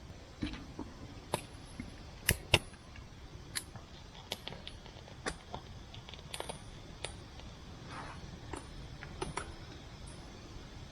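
Scattered sharp clicks and light metallic clinks, irregular, with the two loudest close together a little over two seconds in: small metal camp gear knocking together.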